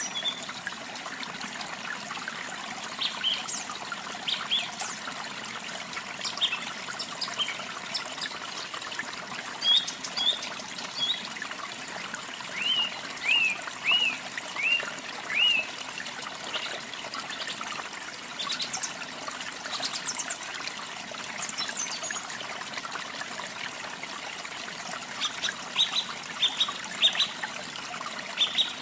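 Steady trickle of running water with small birds chirping over it: scattered short calls, a run of five or six down-slurred chirps in the middle and a quicker burst of calls near the end.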